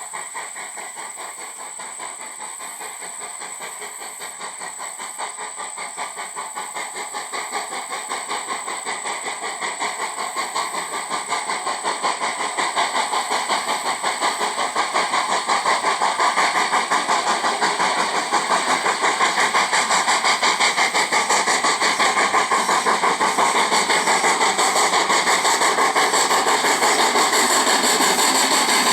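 H.K. Porter 0-6-0T steam tank locomotive working hard, its exhaust chuffing in a fast, even beat. The chuffing grows louder over the first half, then holds steady.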